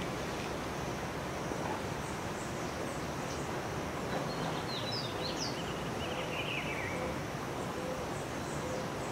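Outdoor background noise with several short bird chirps about halfway through, some rising and some falling in pitch.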